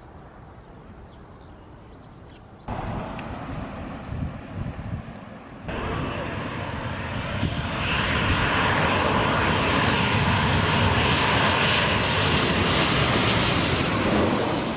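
Jet airliner on approach to land, passing low overhead. Its engine noise builds over several seconds to a loud, steady rush with a high whine near the end.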